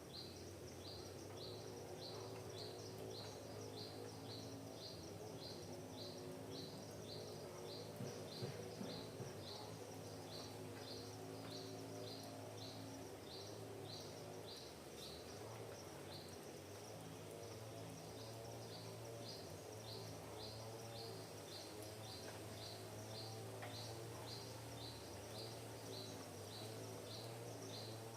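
A bird repeating one short high chirp about twice a second, with a brief pause around the middle, over a steady low hum.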